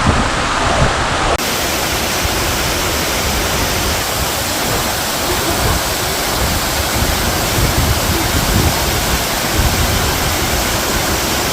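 Waterfall rushing: a loud, steady, even noise of falling water, which turns abruptly brighter about a second and a half in.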